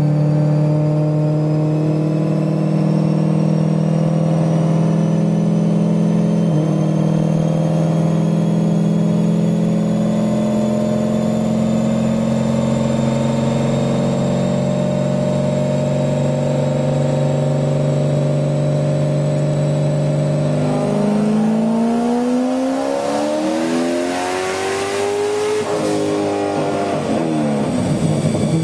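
Twin-turbocharged 408 stroker V8 of a 2005 Corvette running on a chassis dyno. It holds steady revs for about twenty seconds while a faint high whine slowly climbs. About 21 s in, the revs climb fast under full throttle with a rising hiss for about five seconds, then the throttle closes and the revs fall.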